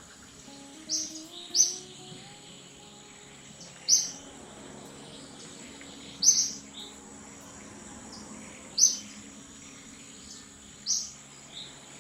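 A bird giving short, sharp high chirps, one every two seconds or so, sometimes two close together, over a faint steady high whine.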